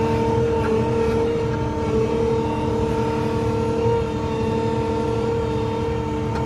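Skid steer loader running steadily, its engine rumble carrying a steady high whine.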